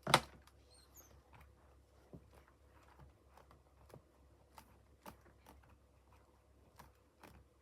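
A sharp knock right at the start, then faint scattered light taps and clicks as a rubber stamp is pressed and worked down onto paper by hand.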